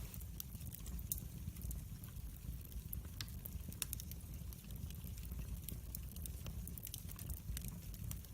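Wood fire burning in a fireplace, crackling with many small, irregular pops over a steady low rumble.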